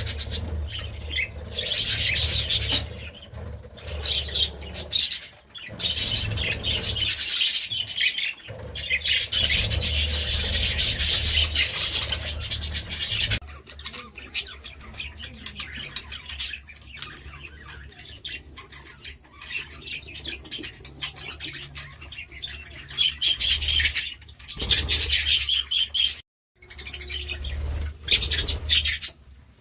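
A flock of budgerigars chattering and warbling: dense high chirping over a low steady hum. The chatter thins and quietens about halfway through, and cuts out briefly near the end.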